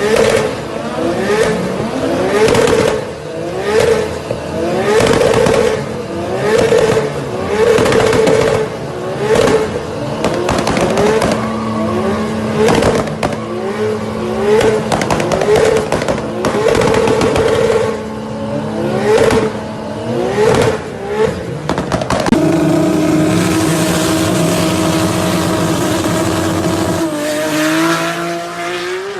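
Toyota Supra's turbocharged inline-six engine revved over and over in short rising blips, with sharp cracks from the exhaust between them. About two-thirds of the way through it cuts to a steadier engine note that starts climbing again near the end.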